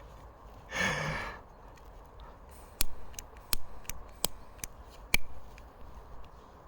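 A person sighs, then a gas lighter is struck again and again, about six sharp clicks over two and a half seconds, without catching: the gas is too cold to light in the winter weather.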